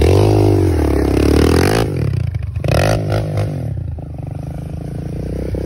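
Dirt bike engine revving up and down as the rider pushes through rough ground, with clattering knocks about two seconds in, another short rev, then the engine running more quietly.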